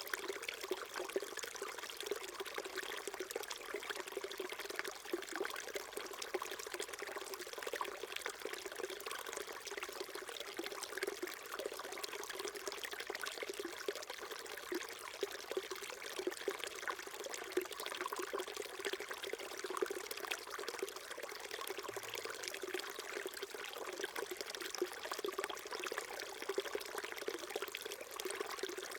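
Small mountain stream flowing and trickling over rocks, a steady babbling that holds even throughout.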